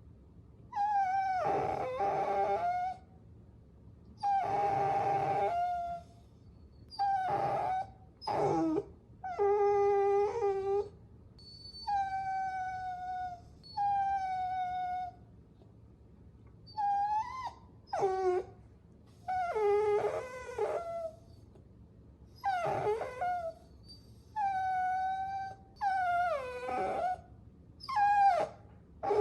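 Puppy whining: a string of about fifteen whines, each a second or two long, some held level and some sliding up or down, with short pauses between them.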